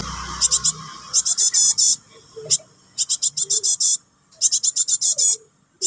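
Fledgling cinereous tit (gelatik batu) giving harsh, rapid chattering begging calls, high-pitched notes repeated in bursts of about a second with short gaps: a young bird calling for its parent.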